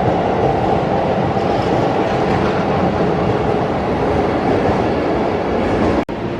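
Keihan electric train moving through an underground station, a steady loud rumble of wheels and motors. The sound breaks off suddenly near the end.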